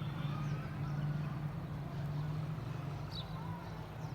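A steady low mechanical hum, like a running engine or traffic, with a short high bird chirp about three seconds in.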